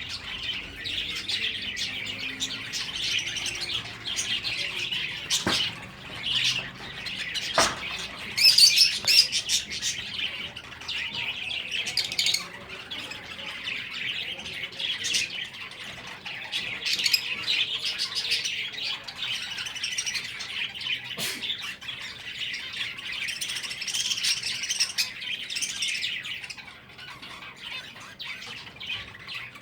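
A group of caged finches chirping and twittering continuously, many short overlapping calls, busiest a little after eight seconds in.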